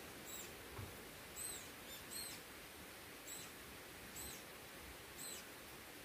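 A small bird calling: short, high-pitched arched chirps repeated about once a second over faint steady outdoor background noise.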